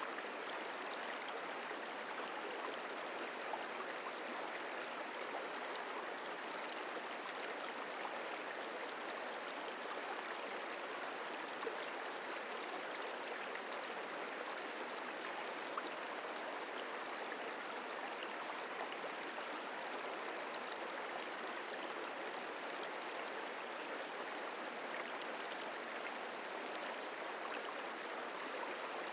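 The Merced River flowing: a steady, even rush of water.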